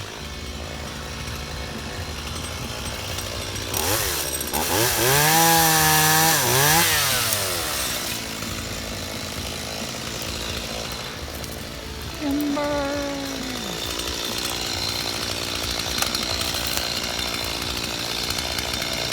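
Stihl chainsaw running at idle, revved up and back down twice about four to eight seconds in, then revved briefly again near the middle, falling back to idle.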